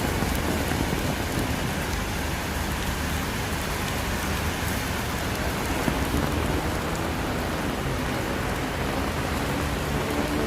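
Steady rain falling and splashing on surfaces, an even hiss with a low steady rumble underneath.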